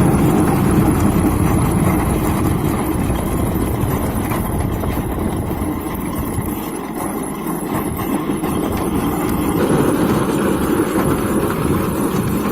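40 hp John Deere tractor's diesel engine running steadily, getting somewhat quieter around the middle and louder again near the end.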